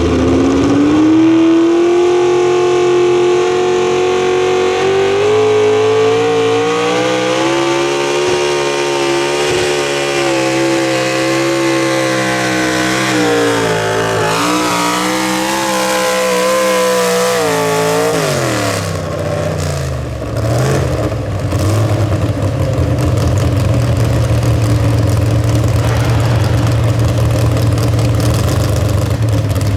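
Mini truck pulling engine running at high revs under load, pitch rising at the start and holding high with a short dip a little past the middle. Near two-thirds of the way through the pitch falls away steeply, and a lower, steady engine note carries on after that.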